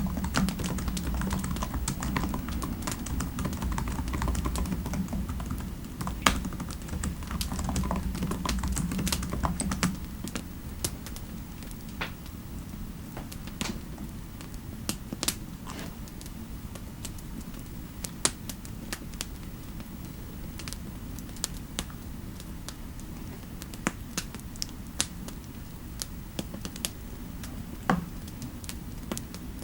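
Typing on a computer keyboard: irregular key clicks, quicker at first and sparser later. A low steady rumble underneath drops away about ten seconds in.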